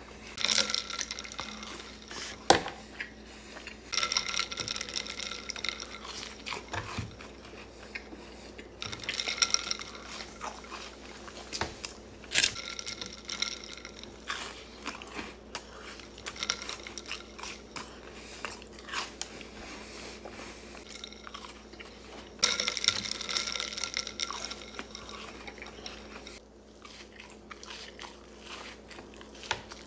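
A person chewing and crunching food close to the microphone, in bursts of crackly crunching every few seconds with a few sharp clicks in between, and some wet sounds.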